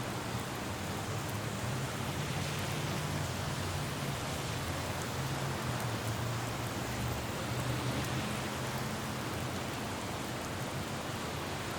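Steady rain falling on a city road, with a low hum of traffic underneath.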